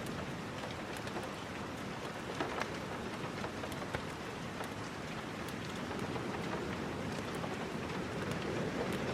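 Steady rain falling, an even hiss, with scattered faint sharp ticks and a slight swell in level in the second half.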